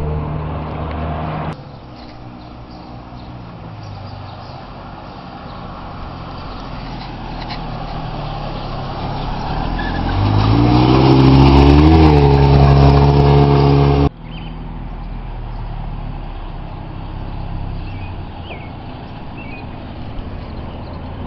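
1991 Mazda Miata's 1.6-litre four-cylinder engine running as the car is driven. Its pitch and loudness climb steadily under acceleration through the middle, peaking about two-thirds of the way in, before the sound cuts off abruptly.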